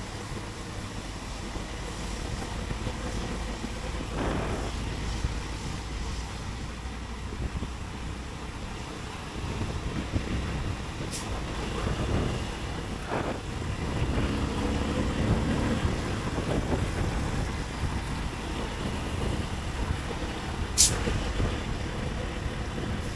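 Motorcycle riding through city traffic: a steady rumble of engine and wind, with other vehicles passing and engines rising and falling in pitch now and then. There are two sharp clicks, the louder one near the end.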